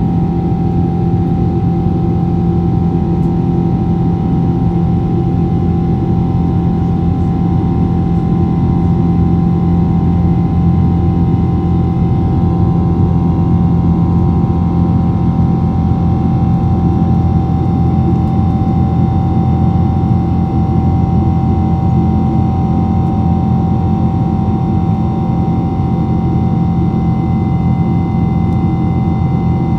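Steady noise of a jet airliner's engines and airflow heard inside the passenger cabin: an even rush with a low steady hum and a clear mid-pitched tone running through it.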